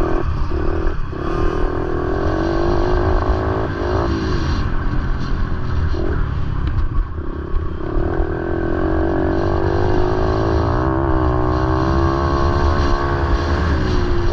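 Motorcycle engines running, their pitch rising and falling as they are revved over a steady low rumble.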